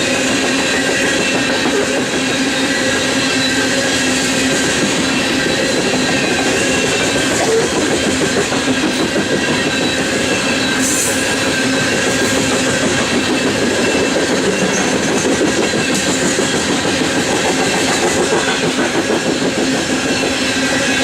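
BNSF coal train cars rolling past at track speed: a steady, loud rumble and rattle of wheels on rail, with several steady high ringing tones held throughout.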